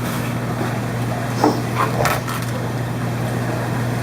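Steady low hum of running fish-room equipment, with a few light knocks and clatters of containers being handled in the middle, the sharpest about one and a half seconds in.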